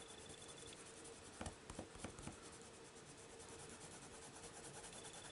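Faint scratching of a coloured pencil shading on paper, with a few light clicks about a second and a half to two and a half seconds in.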